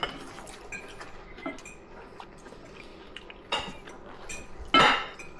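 Cutlery clinking and scraping on dinner plates as people eat, with scattered light clicks and two louder knocks, about three and a half and about five seconds in.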